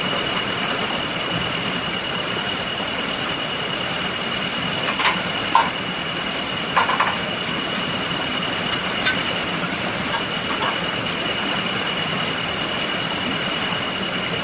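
Steady rain hiss, with a few sharp campfire crackles around five to nine seconds in. A thin steady high tone and faint regular ticks, about one a second, run underneath.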